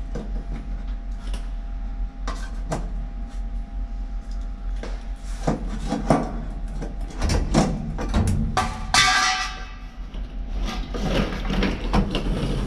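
Irregular knocks and clanks of metal hand tools working on a Volkswagen bus's steel body. About nine seconds in there is a brief ringing metallic screech.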